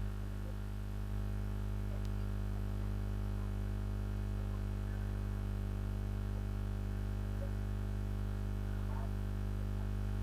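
Steady electrical mains hum, low and buzzy with many overtones, unchanging throughout; a faint tick or two.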